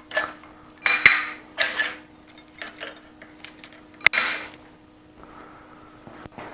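Steel valve-gear parts of an Allis-Chalmers C tractor engine clanking and ringing as the rocker shaft is pulled off the cylinder head. There are three metallic clanks in the first two seconds, a few light ticks, and one sharp ringing clank about four seconds in.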